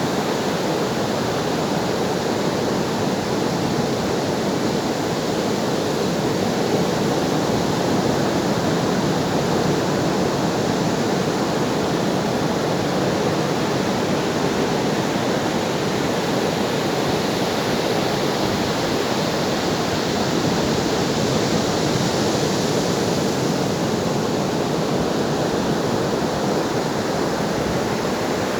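Ocean surf as a steady, unbroken rush of water, with the hiss swelling slightly about two-thirds of the way through.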